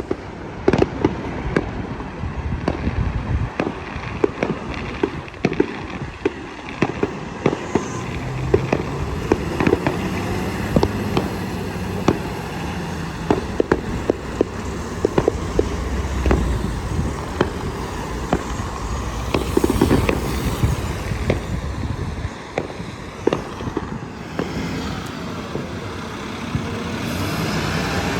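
Fireworks banging and crackling, many sharp reports in quick, irregular succession, over a steady low rumble.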